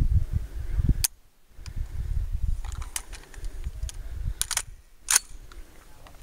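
Several sharp cracks: one about a second in, one near three seconds, a close pair around four and a half seconds, and one just after five seconds. Beneath them runs a steady low rumble.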